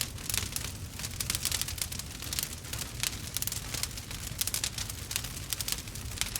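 Wood fire burning, with many small, irregular crackles and pops over a low steady rumble.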